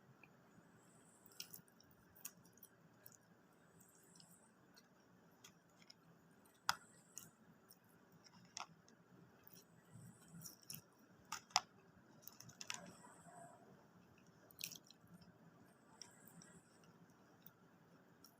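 A person quietly chewing and eating McDonald's food, with scattered faint mouth clicks and smacks. Two sharper clicks stand out, about a third of the way in and again past halfway.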